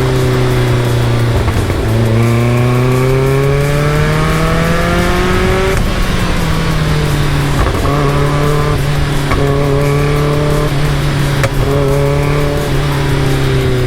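Caterham Super Seven's engine pulling through the gears: the revs fall off briefly, then climb steadily for about four seconds, drop with an upshift about six seconds in, and hold at a fairly steady pitch after that.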